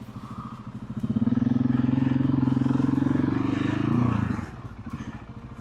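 Motorcycle engine running loudly at a steady pitch for about three seconds, pitch rising slightly just before it drops back to a lower running sound.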